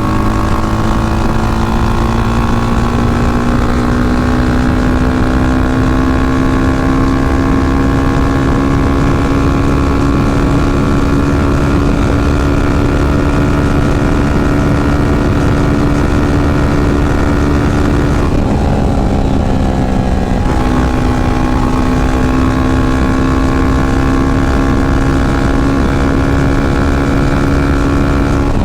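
Yamaha FZ25's single-cylinder engine pulling steadily under way, its pitch slowly climbing as the bike gathers speed. About 18 s in the pitch drops during a gear change, then settles and slowly climbs again, over a constant low wind rush.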